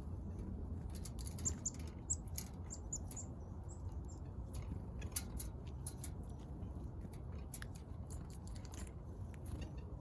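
Small backyard birds giving a few short, high chirps in the first few seconds, among scattered light clicks and taps, over a steady low background rumble.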